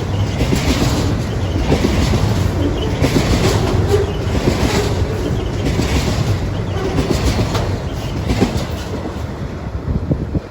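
Double-stack container freight train passing at speed, its wagon wheels clattering rhythmically over the rail joints over a loud, steady rumble.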